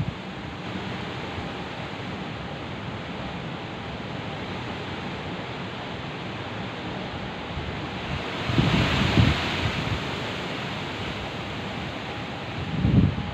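Steady heavy rain with a rumble of thunder about two-thirds of the way in and another short one near the end.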